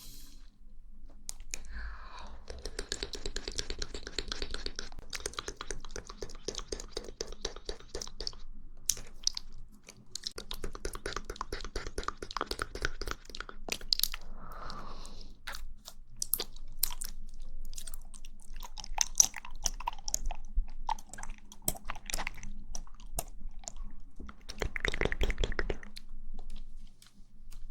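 Mouth sounds of a person chewing jelly close to the microphone: quick runs of wet clicks in several bouts separated by short pauses.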